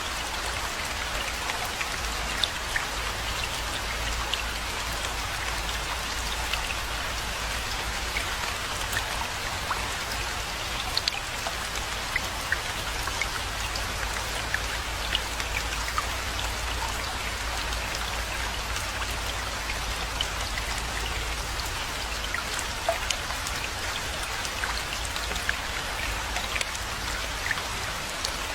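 Steady rainfall, an even hiss with many scattered individual drop hits, over a low steady rumble.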